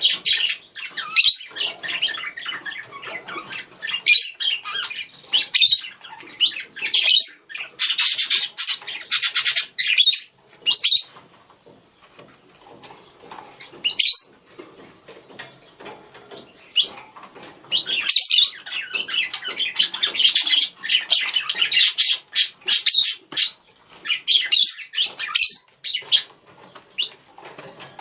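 Budgerigars chattering and calling to each other: rapid warbling chirps and short squawks in bursts, with two brief lulls near the middle.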